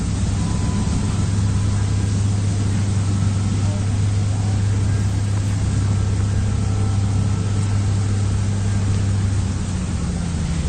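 Radio-controlled construction model's motors running steadily with a strong low hum and a hiss over it, the hum shifting slightly near the end.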